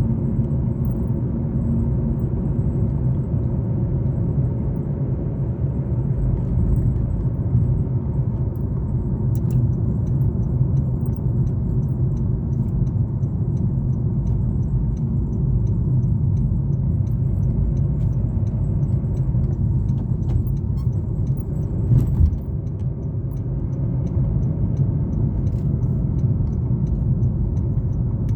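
A car driving on a road, with a steady low rumble from the engine and tyres and light rattling clicks. One brief thump about 22 seconds in.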